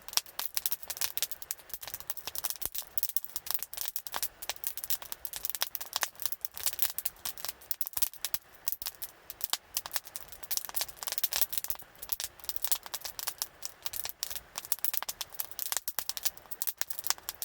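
Wood fire crackling: a dense, irregular stream of sharp snaps and small pops.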